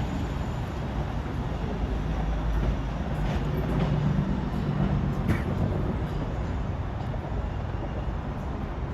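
A train running through the station with a steady rumble and a low hum that swells about four seconds in, with a few faint clicks.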